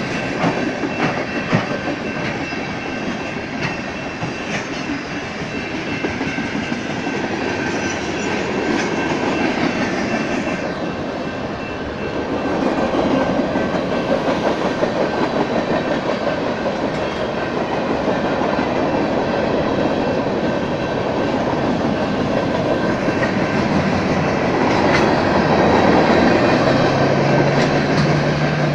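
Freight train's boxcars and tank cars rolling past at a steady speed: a continuous rumble with wheels clattering over the rails, and a faint steady high tone running underneath.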